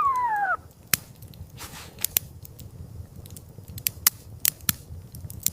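A short whine falling in pitch, then a series of sharp, irregular crunching clicks over a low rumble.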